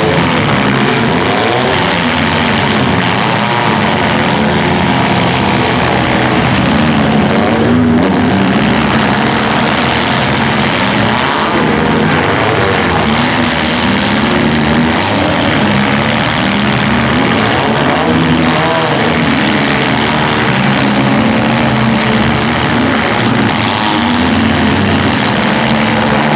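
Engines of several compact demolition-derby cars running and revving together, loud and continuous, their pitches rising and falling over one another.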